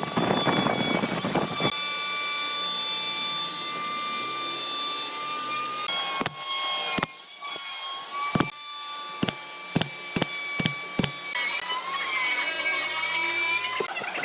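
Power tool with a steady whine cutting through wood, loudest in the first second or two, followed by a series of sharp knocks on wood.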